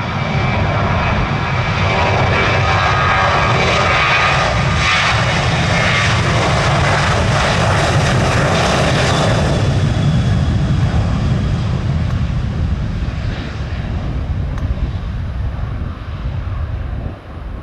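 Jet airliner taking off: the engines' roar grows, is loudest about midway, then its high hissing part fades away while a low rumble carries on.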